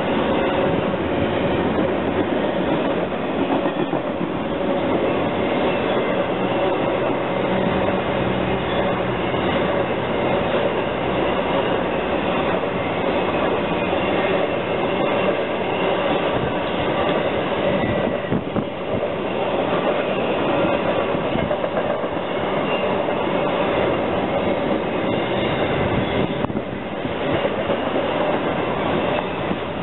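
CSX intermodal freight train's double-stack well cars rolling past at speed: a steady rumble and clatter of steel wheels on the rails.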